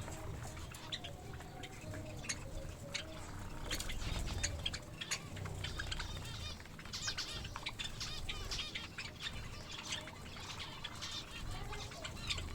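Pet finches, Java sparrows among them, chirping: many short, scattered chirps that are busiest in the second half.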